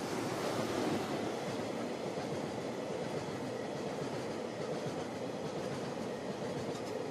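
A freight train's tank wagons rolling past close by, a steady rumble of steel wheels on the rails with a light clickety-clack over the rail joints. The sound swells during the first second as the wagons draw level and then holds steady.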